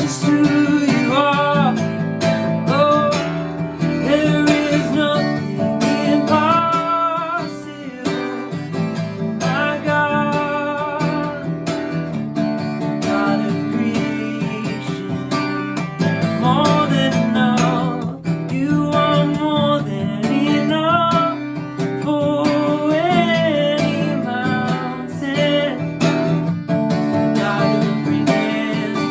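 Strummed acoustic guitar with a man singing a slow melody over it: an original worship song.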